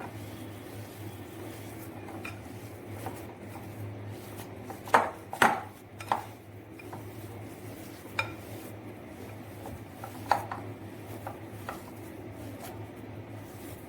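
A utensil knocking and scraping against a bowl as a grated paneer mixture is mashed, with a few sharp clinks, the loudest about five seconds in and others near eight and ten seconds. A steady low hum runs underneath.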